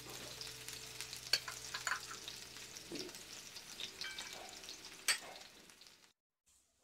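Sliced onions sizzling and crackling in hot oil in a frying pan, with a few sharp pops of spitting oil. The loudest pops come about a second in and about five seconds in. The frying cuts off abruptly about six seconds in.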